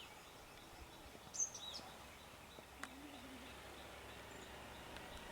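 A bird gives a single short whistled call about a second and a half in, a high note dropping to a lower one, over a faint outdoor background. A faint low wavering sound follows about three seconds in.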